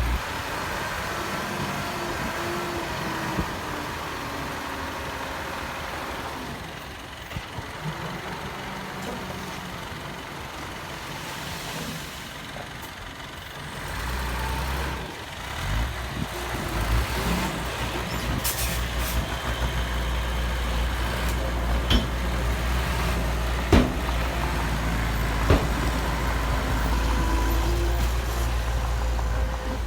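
Diesel engines of heavy earthmoving machinery running, easing off for a while and then growing much louder about halfway through, with a few sharp knocks near the end.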